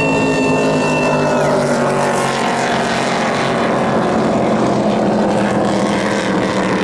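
Motorboat engine running steadily at a constant pitch. A high steady tone sounds over it and stops about a second and a half in.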